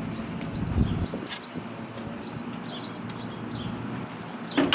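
Birds chirping in a steady run of short, high chirps, about three a second, with a dull low thump about a second in.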